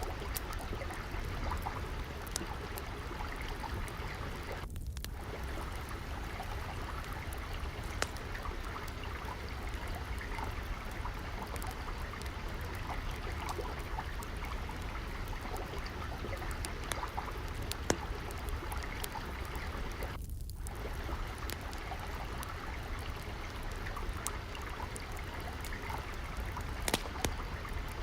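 Steady trickling, flowing water with the scattered sharp crackles of a wood fire over it, a few crackles louder than the rest. The water sound dips briefly twice.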